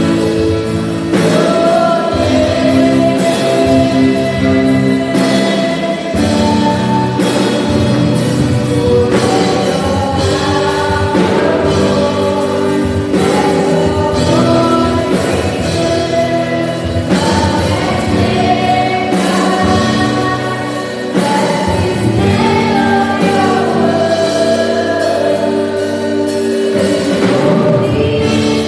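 A worship team singing a gospel praise song with voices together over live band accompaniment.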